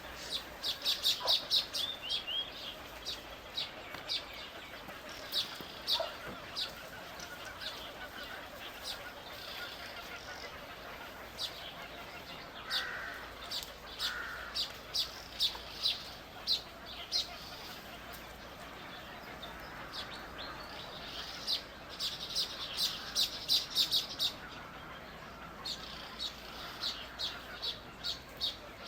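Birds chirping: short, high chirps that come in quick runs, with pauses between.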